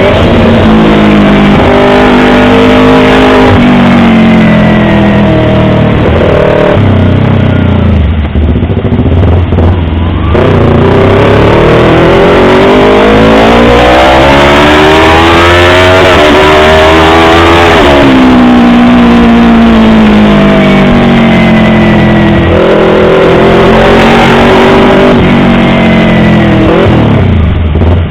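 Yamaha R25 parallel-twin motorcycle engine running loud, its pitch rising and falling with the throttle: a long climb to a high rev about halfway through, a quick drop, then smaller rises and falls.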